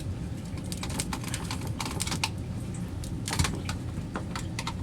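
Irregular light clicks and knocks over a steady low rumble, from hands working on the sewage pump and its new float switch while it is checked.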